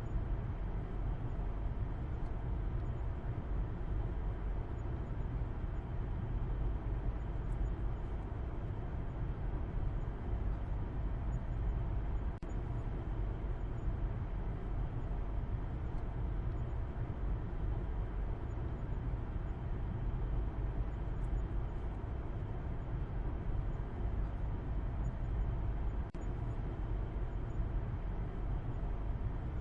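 A car driving steadily, a constant low rumble of road and engine noise with no change in pace.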